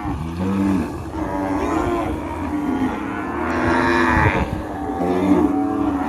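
Cattle mooing: a run of long, drawn-out moos, one after another and sometimes overlapping at different pitches.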